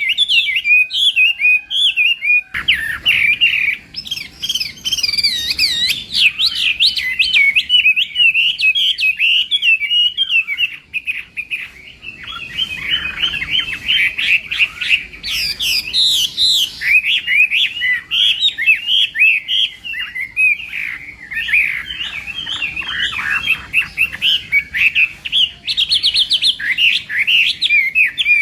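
Chinese hwamei (melodious laughingthrush) singing a long, continuous, varied song of rapid whistled and warbled notes. About two and a half seconds in, a faint low background noise comes in under the song.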